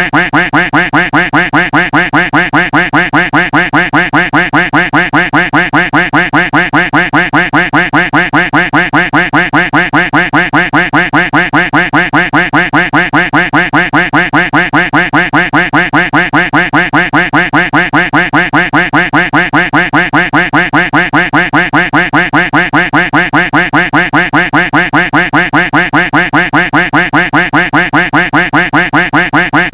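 Duck quack sound effect repeated over and over in a fast, even loop, about three quacks a second.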